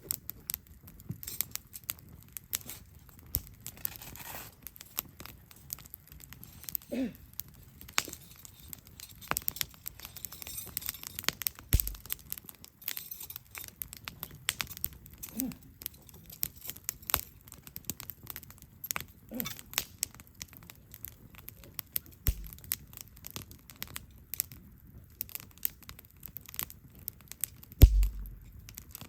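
Wood campfire crackling, with irregular sharp pops and snaps. A few soft thuds come through, the loudest near the end, and there are three brief squeaks.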